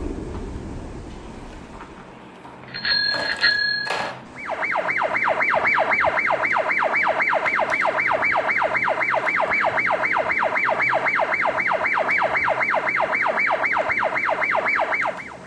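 A toy vehicle's electronic siren wailing rapidly up and down, about four sweeps a second, for some ten seconds. It is preceded by a couple of short electronic beeps and clicks.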